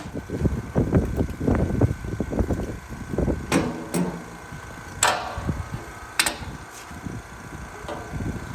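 Hand tools being handled against the truck's steel: rustling and handling noise, then a few sharp metallic clanks that ring briefly, about halfway through.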